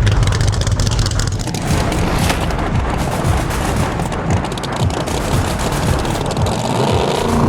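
Drag racing cars' engines running loud, with a rapid, continuous crackling and banging.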